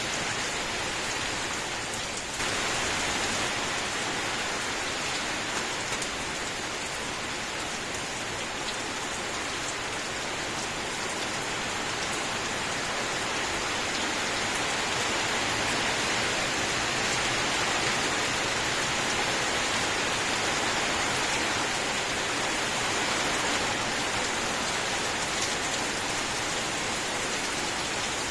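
Steady heavy rain: a continuous, even hiss of falling drops, stepping up slightly in level about two seconds in and swelling a little past the middle.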